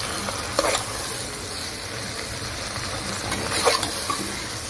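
Bitter gourd and onion slices sizzling in oil and masala as they are sautéed in a pressure cooker. A steel spoon stirs them, scraping the pot with a louder stroke about half a second in and again near the end.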